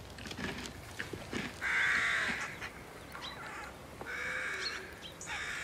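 Harsh, crow-like bird calls: three raspy caws, the first and loudest about two seconds in, the others shorter and near the end. A few faint clicks come before them.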